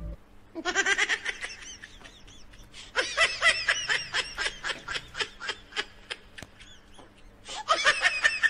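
High-pitched giggling laughter in three bursts of quick repeated 'hee-hee' notes: a short one about half a second in, a longer one about three seconds in, and another near the end.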